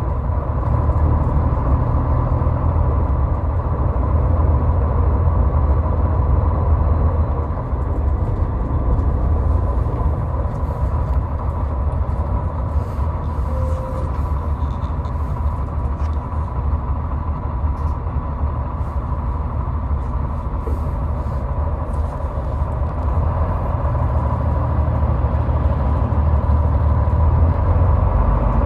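Highway driving noise: a steady low rumble of tyres and engine with a faint steady hum above it. The rumble eases in the middle and builds again near the end.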